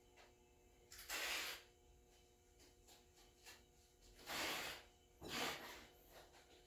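Three short bursts of hissing, each about half a second long: one about a second in, then two close together past the middle.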